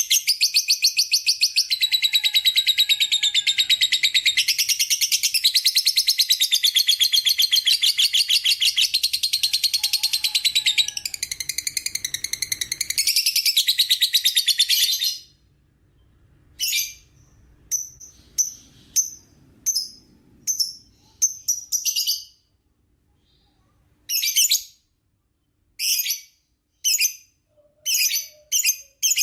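Lovebird singing a long 'ngekek' chatter: a fast, unbroken run of shrill notes for about fifteen seconds. It then breaks into short bursts of chatter with pauses between them.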